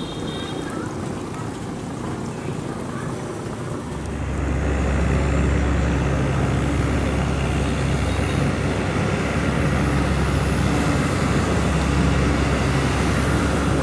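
Long-tail boat engine running steadily, then opened up about four seconds in: it gets louder with a deeper, heavier hum and holds there.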